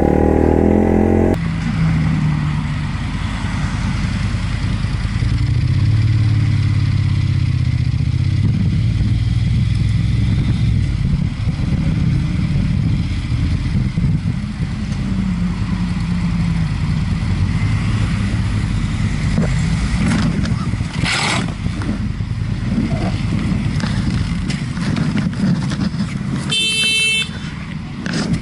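Motorcycle engine running steadily with road noise, with a short burst of noise about twenty-one seconds in and a brief high-pitched horn toot near the end.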